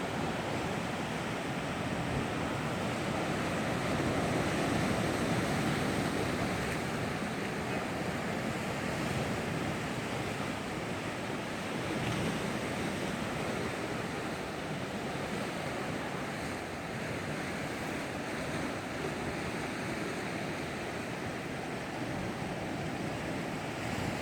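Sea waves breaking on rocks: a continuous wash of surf that swells a little a few seconds in.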